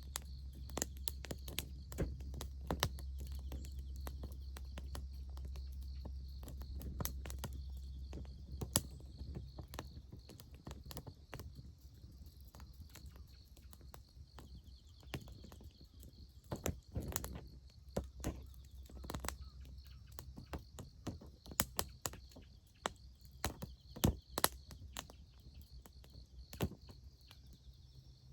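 Wood fire crackling, with many irregular sharp pops and snaps, over a steady high chirring of insects. A low rumble underneath fades out about nine seconds in.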